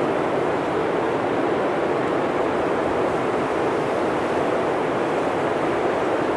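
Blizzard wind blowing in a steady, even rush, with no gusts, breaks or separate sounds standing out.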